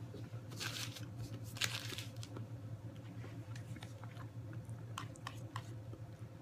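A man chewing a mouthful of chicken, broccoli and cauliflower in cream sauce: soft wet mouth clicks and smacks, busiest in the first couple of seconds, then sparser.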